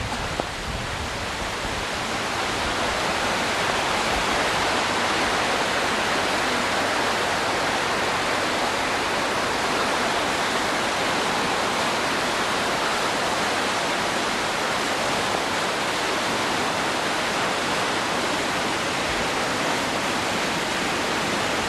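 Rushing floodwater from a creek in flood: a steady, even rush of water with no breaks.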